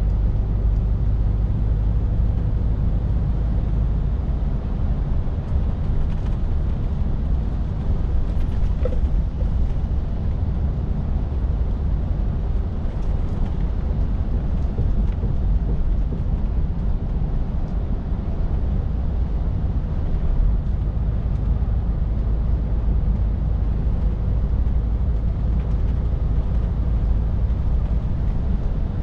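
Scania R450 lorry driving at a steady pace: a constant low rumble of its 13-litre six-cylinder diesel engine and road noise.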